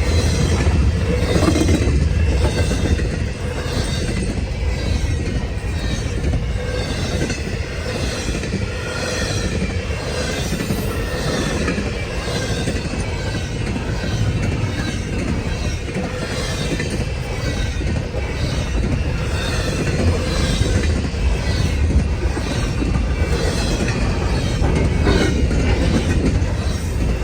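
Freight train cars rolling past at speed, wheels clacking over the rail joints in an even repeating rhythm, with a faint steady squeal from the wheels under the rumble.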